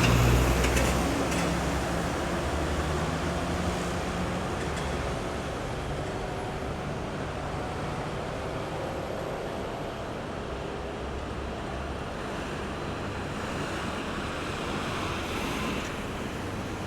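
Road traffic at a roundabout at night. A large vehicle's engine hum is loud at the start and fades away over the first few seconds, leaving a steady wash of tyre and engine noise. Another vehicle swells past near the end.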